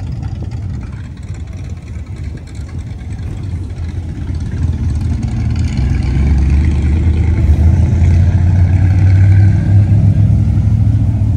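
Car engines rumbling deeply as cars roll in, growing louder about halfway through and staying loud to near the end.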